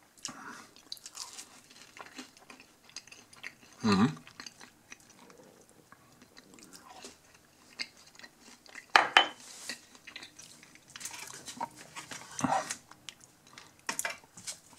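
A person chewing a mouthful of soft pan-pizza crust dipped in barbecue sauce, close to the microphone: wet chewing and mouth sounds, with a few louder moments spaced through it.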